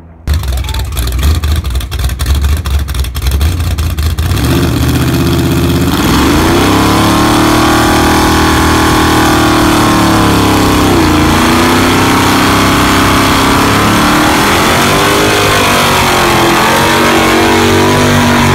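Car engine running loud. Rapid ticking over a low rumble in the first few seconds, then repeated revving with the pitch rising and falling.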